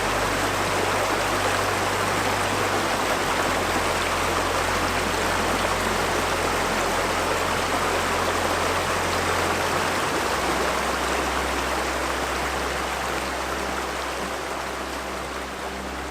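Flowing river water rushing steadily, fading gradually over the last few seconds, with soft, slow-changing low music notes underneath.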